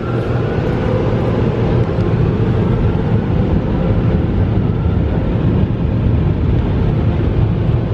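Tunnel car wash dryers blowing a loud, steady rush of air over the car, with a steady low hum from the blowers underneath.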